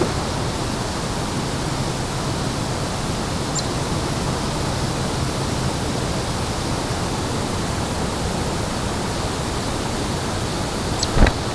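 Steady, even rushing noise, with a few brief high chirps and a short thump near the end.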